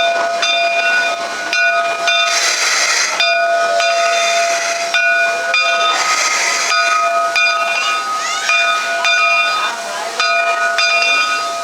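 Steam locomotive standing with steam hissing and a steady whine. Two louder bursts of steam venting come about two and six seconds in.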